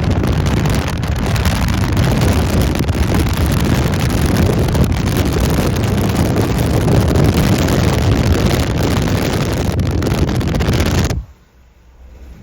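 Strong wind buffeting the microphone: a loud, steady rush heaviest in the low end. It cuts off suddenly near the end, leaving a much quieter background.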